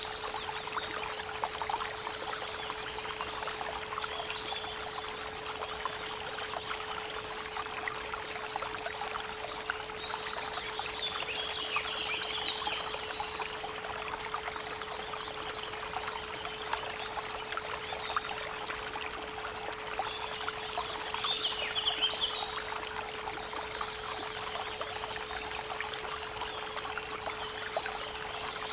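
Creek water running steadily over a continuous 432 Hz pure tone, with birds singing in short phrases now and then.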